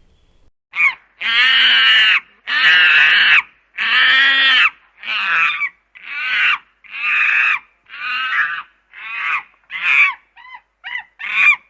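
Chimpanzee calling: a series of high-pitched screams, the first few long, then shorter and quicker toward the end.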